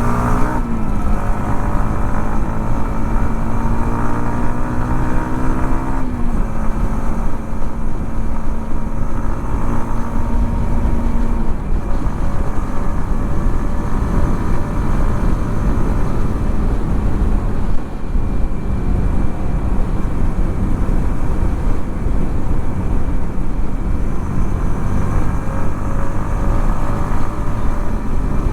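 Yamaha XSR 155's single-cylinder engine under way. It pulls up through a gear, rising in pitch, shifts up about six seconds in, then holds a steady pitch. From about twelve seconds wind rush and road noise mostly cover the engine.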